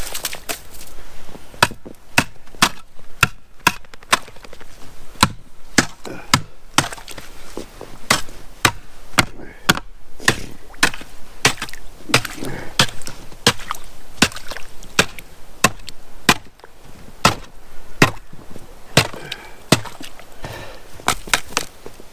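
Ice on a horse's water tub being broken open with a long run of sharp, uneven strikes, about one or two a second, the ice cracking and splintering under each blow.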